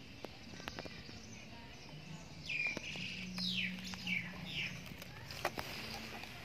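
Bird chirping: a quick run of four or five short, falling chirps about halfway through, over a faint steady low hum, with a few sharp clicks.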